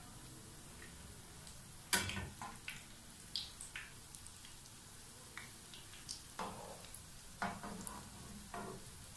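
Breadcrumb-coated bread rolls frying in hot oil with a faint, steady sizzle, while a metal slotted spatula clicks and knocks against the pan several times as the rolls are turned; the sharpest knock comes about two seconds in.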